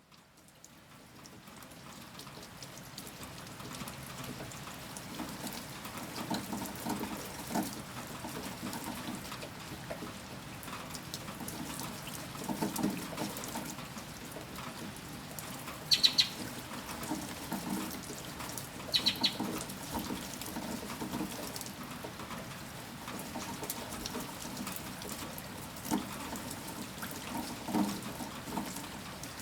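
Steady rain falling, with drips knocking and splashing on a nearby surface; it fades in over the first few seconds. Two short, high chirps stand out about halfway through.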